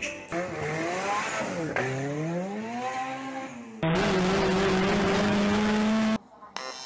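Car engine sounds in short, abruptly cut clips: the engine revs up and down twice, then runs hard at high revs, its pitch slowly climbing, for about two seconds before cutting off suddenly.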